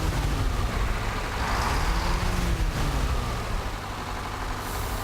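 A truck's engine running as it moves, its pitch rising and falling twice over a steady low rumble.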